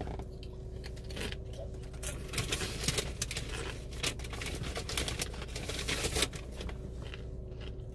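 Crunching of a chip being chewed close up: a run of crisp crackles for several seconds, dying away near the end, over a steady low hum.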